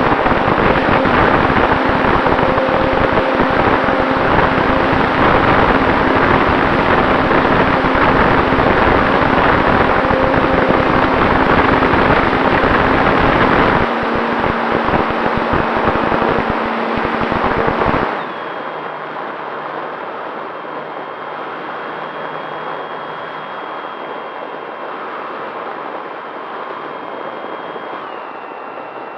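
Heavy wind buffeting the microphone, easing about 18 s in to a lighter wind hiss. A steady high electric-motor whine from the Arrows Bigfoot RC plane runs under it and drops in pitch near the end as the throttle comes back.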